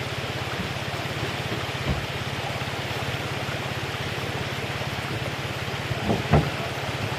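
A vehicle engine running steadily over the rush of river water, with two dull knocks, the louder one about six seconds in.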